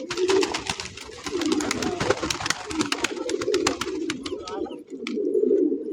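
Pigeons cooing, a steady low warble, with a quick run of sharp clicks and taps through the first four seconds or so that thins out towards the end.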